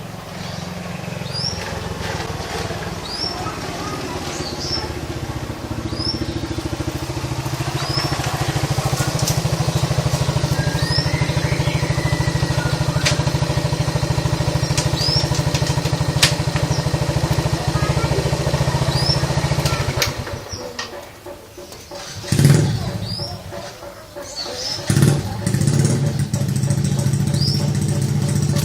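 A motor engine running steadily, growing louder over the first two-thirds, then dropping away, followed by two loud sudden sounds and the engine running again near the end. Over it, a bird repeats a short rising chirp about every second and a half.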